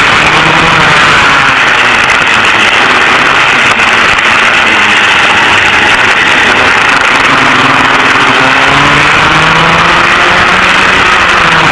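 Engines of vintage dual rear-engine racing karts running hard: a loud, steady engine buzz whose pitch drifts slightly up and down.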